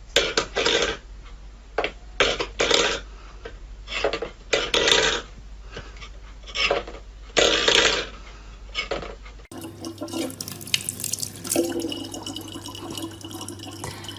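About nine seconds of short, separate noisy bursts, then, after a cut, water running steadily from a tap over a low hum.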